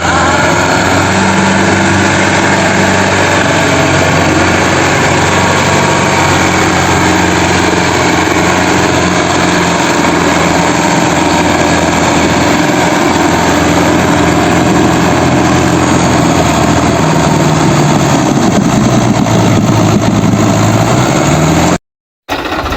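A vehicle engine running steadily and loudly, revving up in the last few seconds, then cutting off suddenly.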